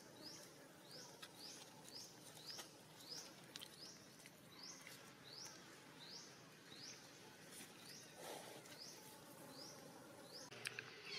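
Faint bird calling over quiet outdoor background: a short, high rising chirp repeated steadily about twice a second.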